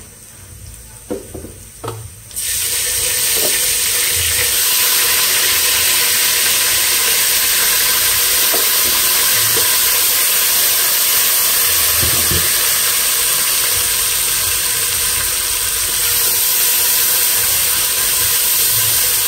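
Ginger-garlic paste dropped into hot oil and browned onions in a pot: after a few light knocks, a loud, steady sizzle with hissing steam starts suddenly about two seconds in and keeps going.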